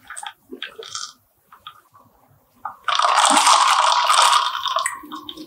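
Sipping through a plastic straw from a glass jar of whipped green-tea milk drink, with small wet clicks. About three seconds in, a loud, steady wet churning lasts around two seconds as the straw is stirred through the frothy drink.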